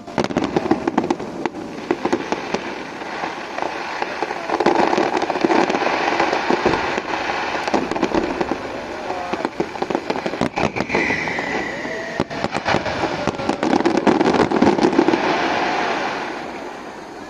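Fireworks going off in a dense, rapid crackling barrage of many close-spaced bangs. It starts abruptly and fades out near the end.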